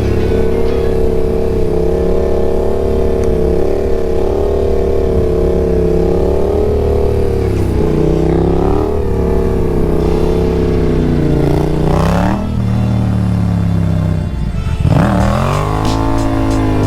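Yamaha XSR700's parallel-twin motorcycle engine running under the rider at fairly steady revs, then revving up and falling away about three-quarters of the way through, dropping sharply and climbing again near the end.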